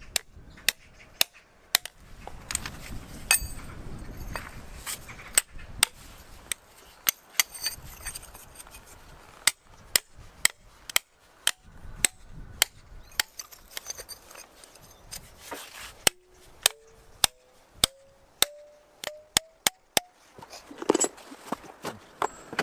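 Hammer blows on hardened steel wedges driven into drilled holes in a volcanic boulder, feather-and-wedge style: sharp metallic strikes, about one to two a second, each with a short ring. Toward the end the ring after each blow steps up in pitch from one strike to the next.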